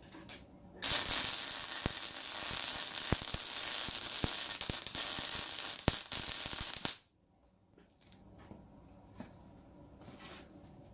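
Electric arc welder laying a bead on steel exhaust pipe: a steady crackling sizzle peppered with sharp pops. It starts about a second in and cuts off suddenly about seven seconds in, leaving a faint hum.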